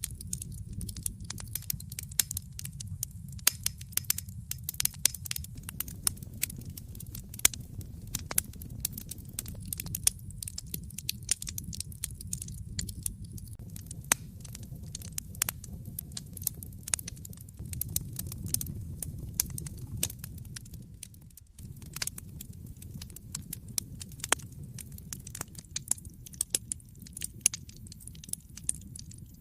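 Wood fire crackling in a fireplace: frequent sharp pops and snaps over a steady low rumble of flames, with a brief drop in level about two-thirds through.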